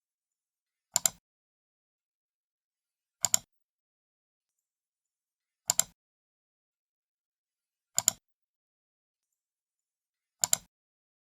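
Computer mouse left button clicked five times, a little over two seconds apart. Each click is a quick double snap, the press and the release.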